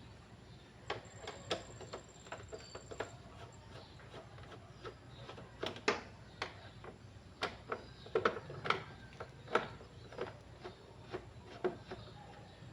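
Irregular light clicks and taps, one or two a second and uneven, as from small hard objects being handled; they grow a little louder about halfway through.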